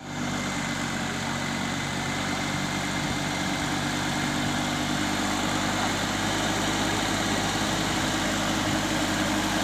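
Tractor engine running steadily at idle; its low note shifts slightly about halfway through.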